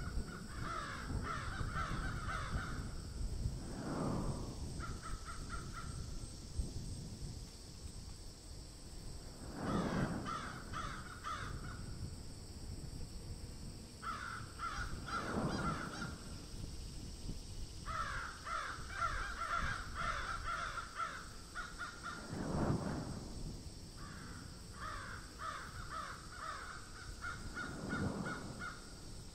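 Birds calling in repeated bursts of rapid pulsed notes, each burst lasting one to three seconds, over a steady high hiss. A low rushing swell comes every five or six seconds.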